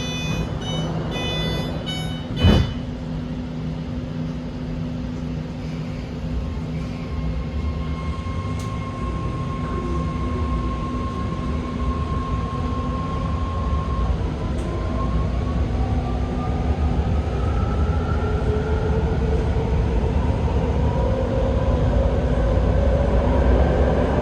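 BART train departing: a run of short repeated beeps, a sharp thud about two seconds in, then the car's motors running with a steady whine that starts rising in pitch about halfway through as the train picks up speed, over a growing rumble.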